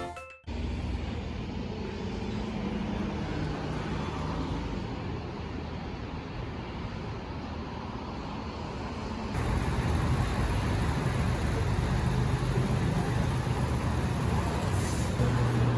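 Steady vehicle noise: a car running with road rumble and a low hum, which turns a little louder and deeper about nine seconds in.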